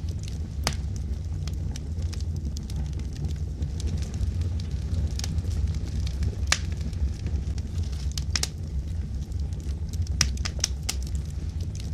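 Wood logs burning in a fireplace: irregular sharp crackles and pops, some in quick clusters, over a steady low rumble of the flames.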